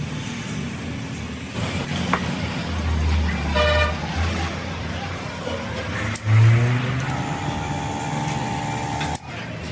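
Road traffic with vehicle horns: a short honk about a third of the way in and a longer held horn near the end, over engine hum and street noise.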